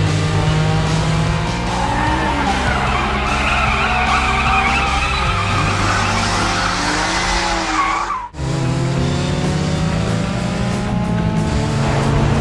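Race car engine sound effects running steadily, with tyres squealing for several seconds in the middle as the cars corner. The sound cuts out for an instant about eight seconds in, then the engines carry on.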